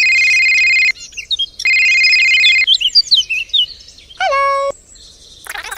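Two long, steady electronic beeps of about a second each, with birds chirping between them. Then a short electronic tone that rises and holds.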